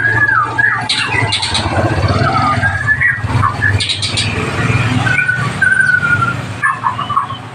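White-rumped shama singing: a run of varied whistled phrases, slurs and sharp chips, over a steady low hum.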